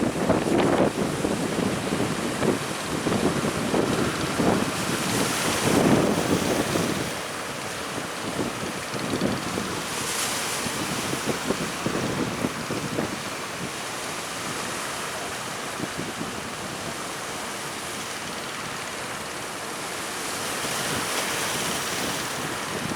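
Strong wind buffeting the microphone over surging, breaking sea waves. The gusts are heaviest in the first several seconds, then ease into a steadier rush with swells of wave wash.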